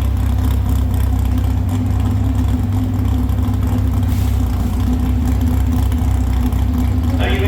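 Engine of a competition pulling vehicle running loud and steady, with a deep, even drone and no clear revving.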